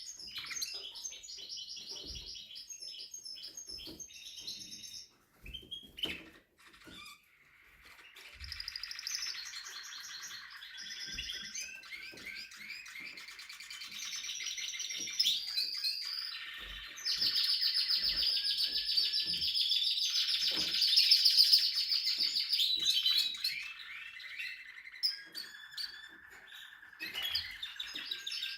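Spanish Timbrado canary singing a long run of rolls and trills. It breaks off briefly about five seconds in, and its loudest phrase is a steady high trill held for several seconds past the middle.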